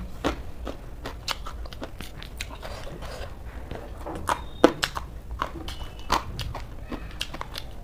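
A person chewing a mouthful of raw shredded cabbage salad, with irregular crisp crunches.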